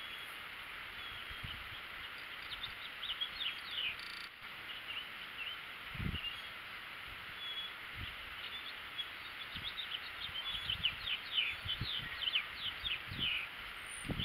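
Small songbirds chirping in quick series of short, high, downward-sliding notes, coming in clusters, busiest near the end, over a steady outdoor hiss.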